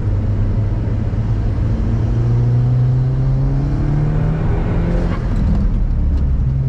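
SEAT Leon Cupra's turbocharged four-cylinder engine under load on track, heard from the cabin: its pitch rises steadily for a few seconds, then drops about five seconds in.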